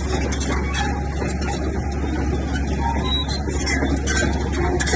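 Bulldozer's diesel engine running steadily, with frequent short metallic clanks and rattles over it.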